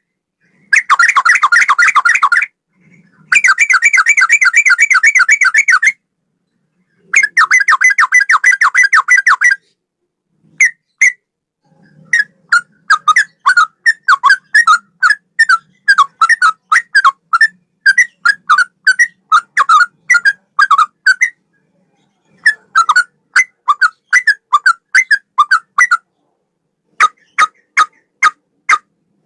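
Yellow-vented bulbul (trucukan) singing in a cucak rowo (straw-headed bulbul) style. It opens with three bursts of fast trilling a few seconds long, then runs of separate sharp whistled notes at about four a second, with short silent breaks between the phrases.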